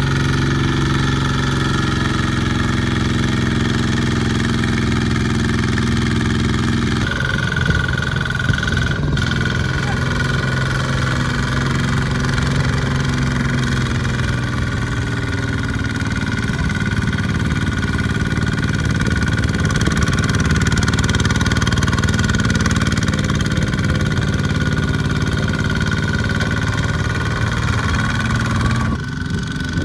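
Small farm tractor engine running steadily. About seven seconds in the sound changes abruptly to a rougher engine note with a steady high whine over it, and changes again just before the end.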